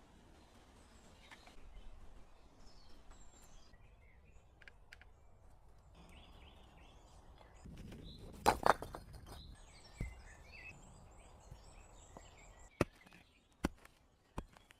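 Faint birds chirping over quiet outdoor ambience. A few sharp knocks and clicks break in, the loudest a quick double knock about eight and a half seconds in, then single ticks spaced about a second apart near the end.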